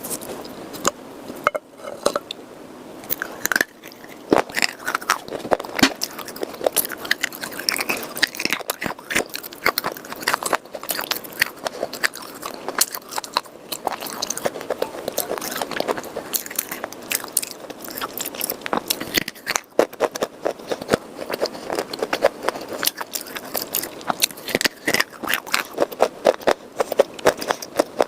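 Close, crunchy biting and chewing of red khawa edible clay and chalk pieces moistened with water: a dense run of sharp, irregular crackling crunches that keeps going.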